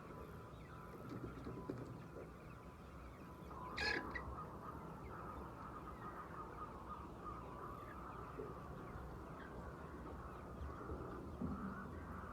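Flock of laying hens, a steady background of clucking with one louder, sharper squawk about four seconds in.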